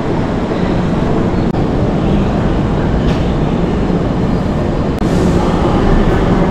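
Steady rumble and hum of a Kintetsu limited express train standing at an indoor station platform, mixed with platform noise. A faint steady hum comes in about five seconds in.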